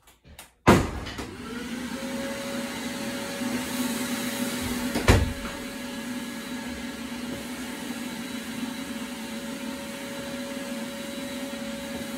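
Vacuum cleaner switched on with a click about a second in, its motor whine rising as it spins up and then running steadily. A single loud knock sounds about five seconds in.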